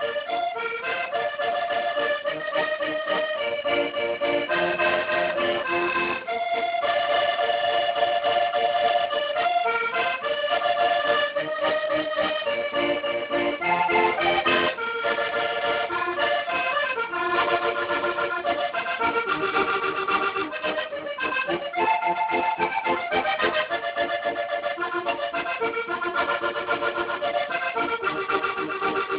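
Accordion music: a melody of held notes over chords, playing without a break.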